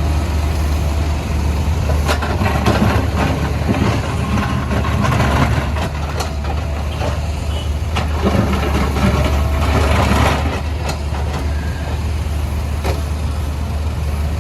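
Diesel engine of a CAT 462F backhoe loader running steadily under work, with irregular knocks and scraping from its bucket breaking up the road surface. The knocking comes thickest a couple of seconds in and again around two-thirds of the way through.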